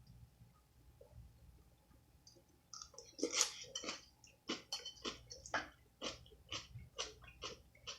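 A person chewing food in the mouth, starting about three seconds in with a steady rhythm of about three chews a second.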